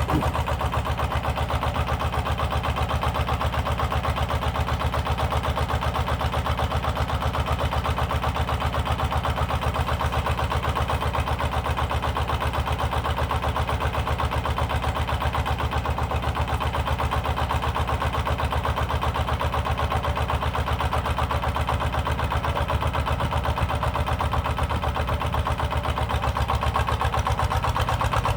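A power tiller's single-cylinder diesel engine chugs steadily with a fast, even beat. It is driving the hydraulic pump of a log splitter built onto the tiller.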